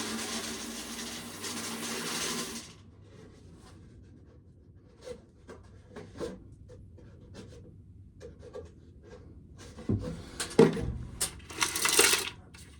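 Corn sheller running with a steady hum and grinding rattle that stops abruptly under three seconds in, followed by scattered light clicks and knocks of handling, with a few louder knocks near the end.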